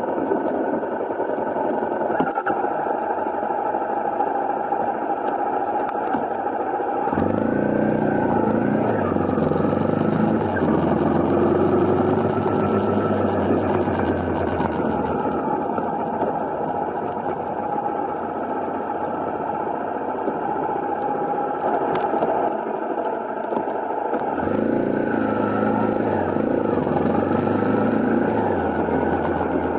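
Honda CRF250L's single-cylinder engine running under way over steady wind noise, its pitch rising and falling with the throttle. The engine note comes up strongly about seven seconds in and again near the end.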